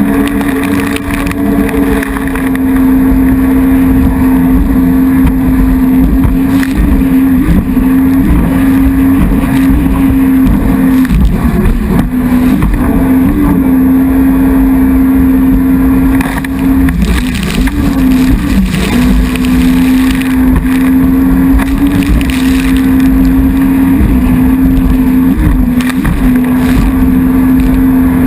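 Jet ski engine running loud at high, steady revs over wind and water noise. Its pitch wavers and dips briefly a few times, around the middle and again near the end.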